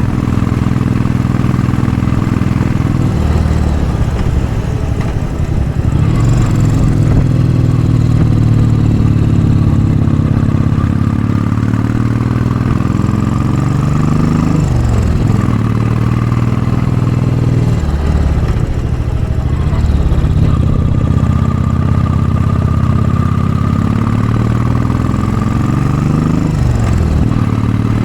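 Royal Enfield Bullet 500's single-cylinder engine, breathing through a baffled Mass Moto Bottiglia exhaust, pulling hard up a steep hill. The revs climb and fall away sharply about halfway through and again near the end.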